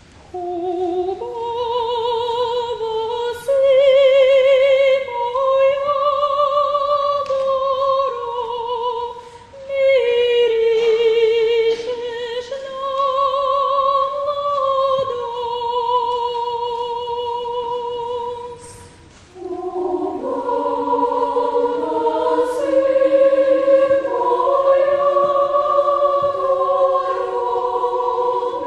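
Bulgarian children's choir singing a Bulgarian folk song. A solo voice sings the slow melody with strong vibrato, pausing for breath twice, and about two-thirds of the way through the full choir enters in close multi-part harmony.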